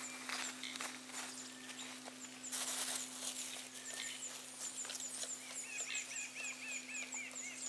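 Outdoor ambience with birds calling: a thin high chirp repeating steadily, and a quick run of lower chirps near the end. A brief rustling noise about two and a half seconds in is the loudest moment.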